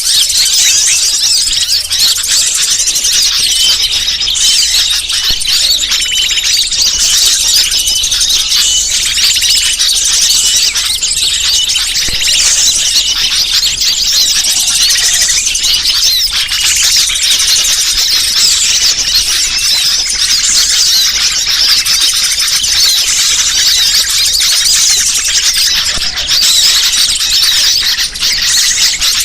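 Dense, continuous high-pitched chirping and twittering of many small birds calling at once, a bird-lure (pikat) recording meant to draw wild birds in.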